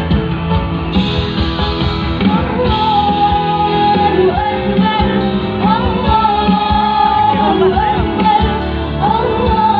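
Live band music with a woman singing a melody of long held notes, each one sliding up into pitch.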